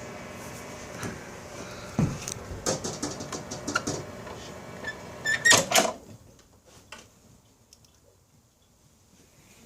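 Microwave oven running with a steady hum while a set of barbecue lighters burns inside it, over a string of sharp clicks and knocks. The loudest knocks come about five and a half seconds in, and the hum then stops.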